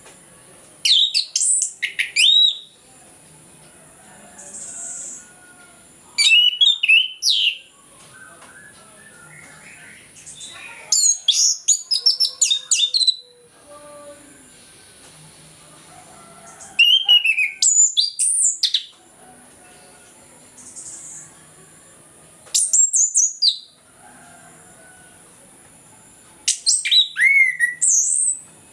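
Orange-headed thrush singing its full song in six loud, whistled phrases, each a second or two long with many quick pitch glides, separated by pauses of a few seconds.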